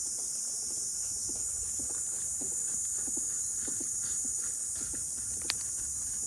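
A chorus of summer cicadas droning steadily at a high pitch, with one sharp click about five and a half seconds in.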